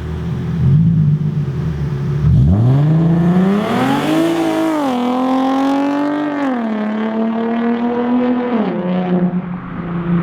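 Nissan 370Z's 3.7-litre V6 through a catless Z1 Motorsports single-exit race exhaust: a low steady drone, then revs climbing hard about two seconds in, dropping in two steps with short holds between, and settling back to a steady drone near the end.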